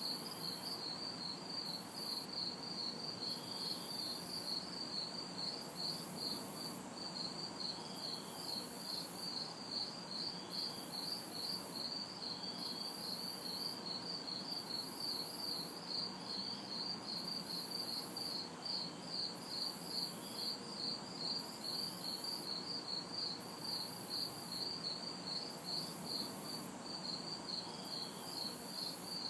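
Crickets chirping in a steady, rapid pulse, with a second, sparser chirp now and then and a very high insect buzz switching on and off about once a second. Underneath runs a low, even hum of distant city traffic.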